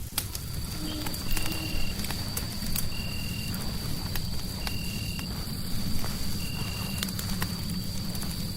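Fireplace crackling with scattered sharp pops over a steady low rumble. A short high note repeats about every second and a half, and a thin steady high tone comes in just after the start.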